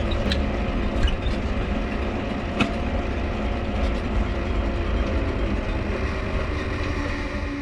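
Mifa folding bicycle being ridden, its dynamo humming steadily over the low rumble of the tyres and wind, with a few sharp clicks along the way.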